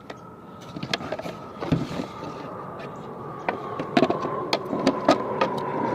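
Airplane passing overhead: a steady drone whose tone slowly falls in pitch while it grows louder toward the end. Scattered sharp clicks and taps of plastic parts being handled sound over it.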